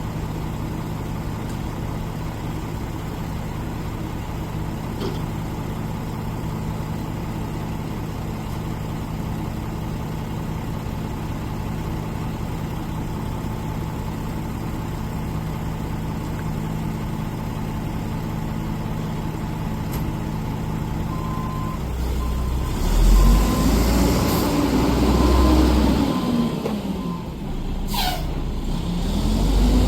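Garbage truck's diesel engine idling steadily. About two-thirds of the way in it revs up and down several times, with a steady high beep for a few seconds and a short falling hiss near the end.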